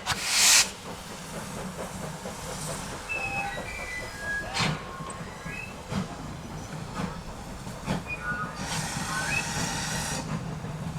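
GWR steam tank locomotive working a train: a short, loud burst of steam hiss at the start, then a steady low rumble with scattered clanks and knocks, and another stretch of steam hiss near the end.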